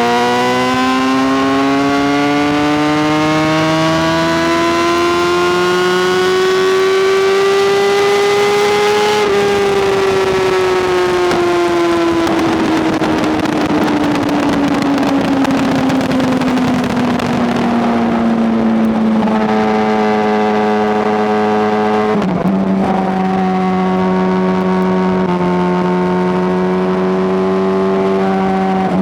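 Honda CBR600RR's inline-four engine under way. It accelerates, with the note rising steadily for about nine seconds. The throttle then rolls off and the pitch falls slowly with a rougher rushing sound. The engine then settles into a steady lower-rev cruise for the last ten seconds.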